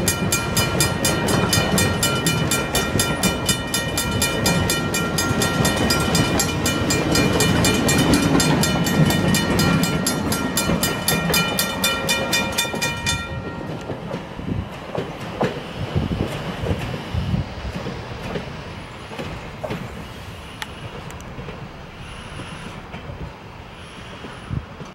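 Steam whistle of a 4-4-0 steam locomotive, Wilmington & Western No. 98, blowing one long blast over the loud rumble of the moving train and cutting off sharply about 13 seconds in. The train then runs on more quietly with scattered clicks of wheels over rail joints, fading away.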